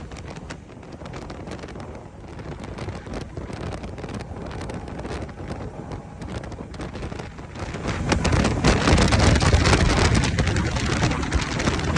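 Wind buffeting the microphone over a motorcycle running at road speed. It gets clearly louder about two-thirds of the way through.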